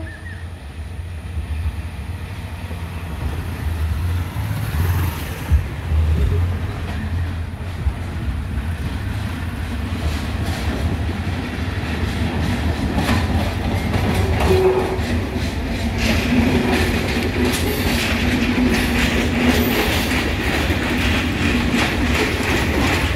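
Sri Lanka Railways Class S11 diesel multiple unit approaching and passing close by: a steady low diesel rumble that grows louder, and from about halfway a clatter of wheels over the rail joints that thickens as the carriages go by.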